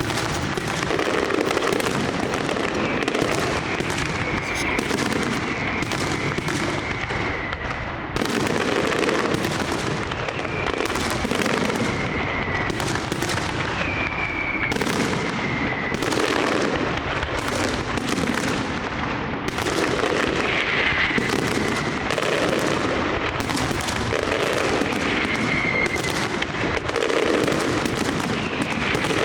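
Large aerial fireworks display (castillo): a continuous dense barrage of overlapping bangs from bursting shells, with short falling whistles heard now and then.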